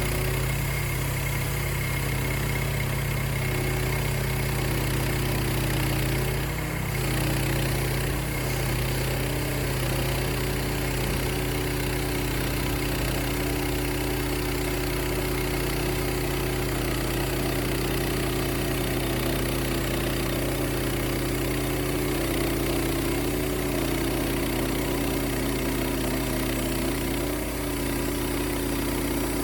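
The 14 hp engine of a Wood-Mizer LX55 portable band sawmill running steadily, with a brief dip about seven seconds in.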